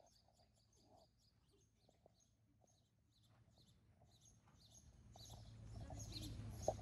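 Faint small-bird chirping: rapid short, high chirps, several a second, growing louder over the last couple of seconds over a low background noise.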